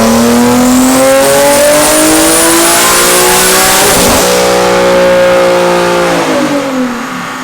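Turbocharged Nissan 370Z's VQ37 3.7-litre V6 making a full-throttle dyno pull. The revs climb steadily for about four seconds with a high turbo whistle rising alongside, hold near the top for about two seconds, then drop away as the throttle is closed near the end.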